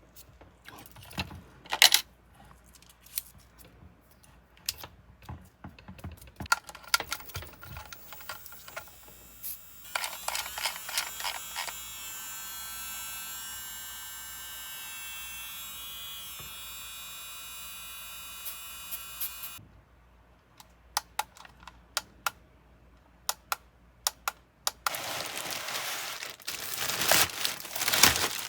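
Light clicks and taps of small plastic items being handled. About a third of the way in, a small electric motor starts with a steady high whine, runs for roughly ten seconds and cuts off suddenly. Near the end comes a crinkling of packaging.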